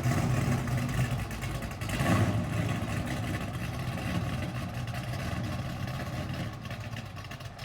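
406 small-block Chevy V8 running after a cold start, with a brief swell in engine sound about two seconds in, then idling steadily.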